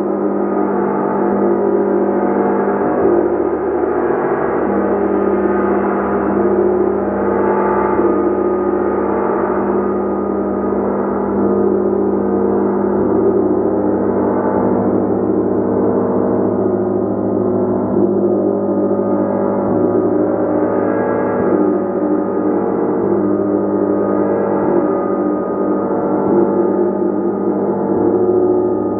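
Gong played continuously, its many overlapping tones held in a dense, steady wash without pause.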